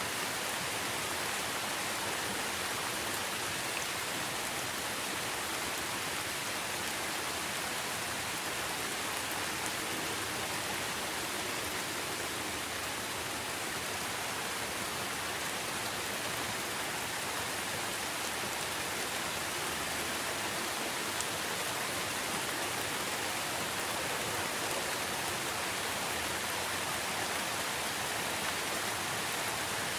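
Steady rain falling, a constant even hiss with no music or distinct drops standing out.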